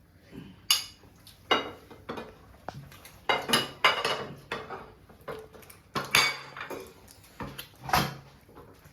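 Metal spoons and dishes clinking and knocking together as food is dished out, about half a dozen separate clinks with short ringing.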